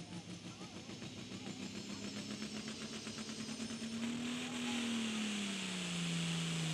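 Turbocharged diesel engine of a Super Pro Farm pulling tractor running hard under load during a pull. Its pitch rises a little, then sags in the second half, and it grows louder throughout, with a rushing hiss building from about two-thirds of the way in.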